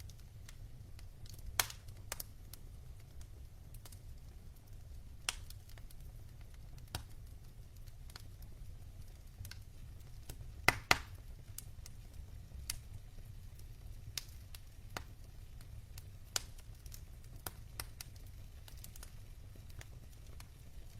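Wood fire burning in a fireplace: irregular sharp crackles and pops from the logs, the loudest two close together about halfway through, over a steady low rumble.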